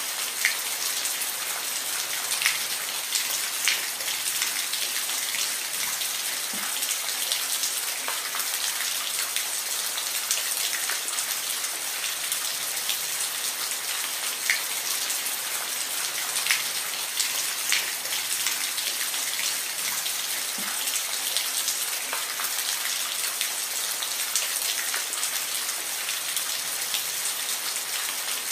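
Steady rain falling, an even hiss with the scattered sharper taps of individual drops striking a surface.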